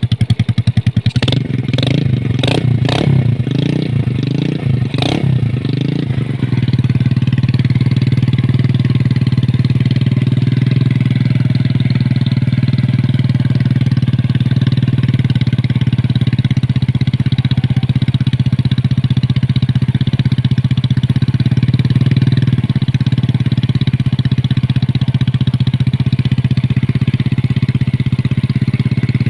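A Yamaha Jupiter Z 125 cc motorcycle running through a CLD C3 aftermarket exhaust. The throttle is blipped in a quick series of short revs during the first five seconds or so, and then the engine settles to a steady idle.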